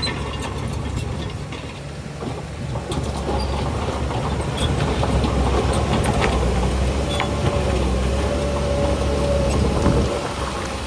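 Heavy diesel engine of earthmoving machinery working under load, growing louder about two seconds in and easing off near the end, with scattered light metallic clicks.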